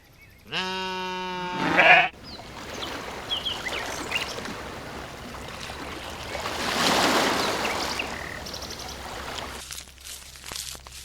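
One long bleat from a sheep or goat, lasting about a second and a half, followed by a steady outdoor rushing noise with a few brief high chirps that swells and fades in the middle, then scattered light clicks near the end.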